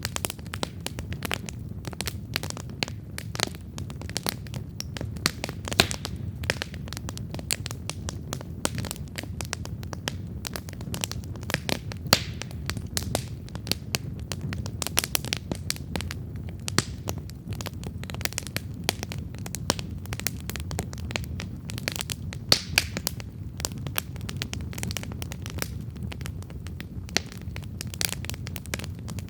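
Wood campfire crackling steadily: dense sharp pops and snaps over a low, steady rumble of burning, with a few louder pops at intervals.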